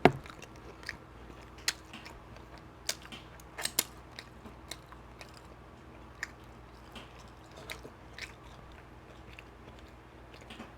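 Close-miked mouth sounds of eating barbecued beef rib: chewing and biting with scattered sharp wet clicks and smacks, the sharpest right at the start.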